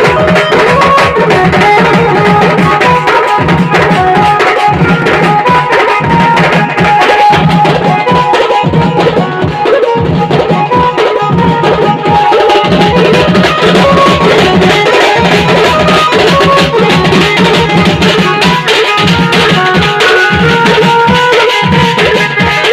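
Loud wedding band music: steady, driving drum rhythm under a held melodic line, played without pause.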